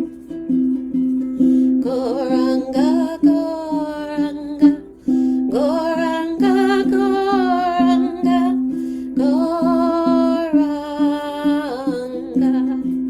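Kirtan music: a woman's voice sings three long, sliding melodic phrases of a chant over a steady, rhythmically strummed string instrument such as a ukulele.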